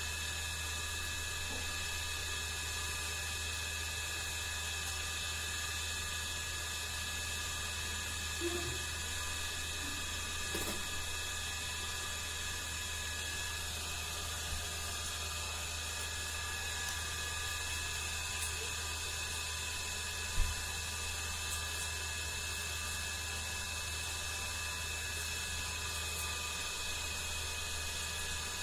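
Steady electrical hum with a thin high whine, holding constant. A few faint brief sounds and one sharp click about twenty seconds in.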